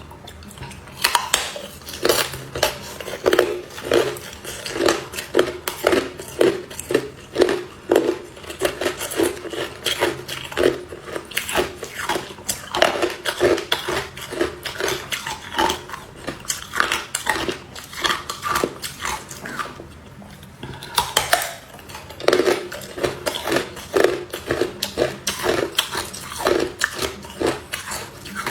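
Hard clear ice being bitten and chewed: a close, rapid run of loud, sharp crunches several times a second, with a short pause about twenty seconds in.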